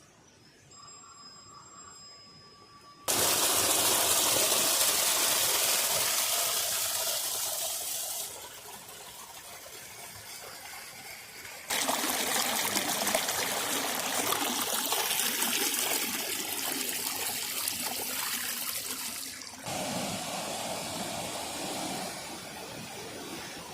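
Rushing water, a loud steady noise that starts suddenly about three seconds in after a faint stretch with a few thin steady tones, and changes level abruptly several times.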